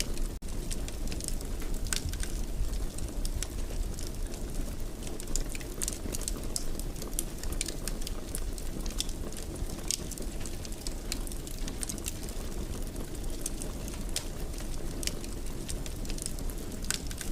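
Wood fire crackling in a fireplace: a steady low rush of burning with irregular sharp pops and snaps. The sound cuts out for an instant about half a second in.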